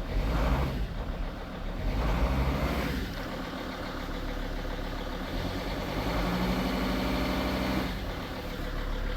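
2006 Dodge Sprinter 2500's 2.7-litre five-cylinder diesel engine idling steadily shortly after a cold start. A few louder stretches of noise come and go over it.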